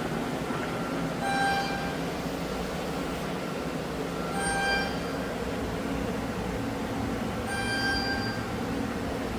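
Doosan Puma TT1800SY CNC turning center running with a steady mechanical hum. A short, ringing tone sounds about every three seconds.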